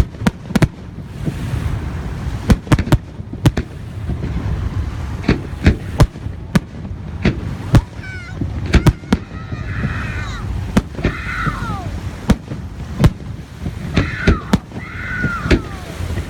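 Fireworks display: aerial shells bursting in a rapid, irregular string of sharp bangs over a steady low rumble. From about eight seconds in, high calls sweeping down in pitch come through between the bangs.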